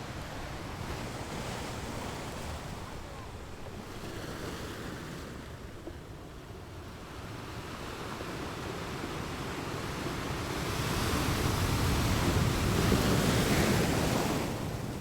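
Ocean surf washing in, a wave swelling louder through the second half and breaking, then falling away just before the end.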